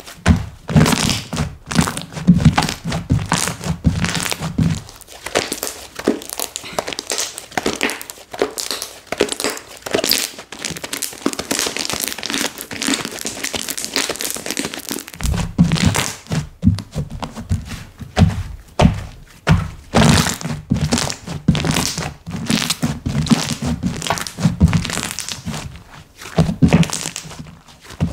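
Slime being squished, folded and poked by hand, giving rapid sticky clicks and crackles. Dull thunks come in stretches: for the first few seconds, then again from about halfway through.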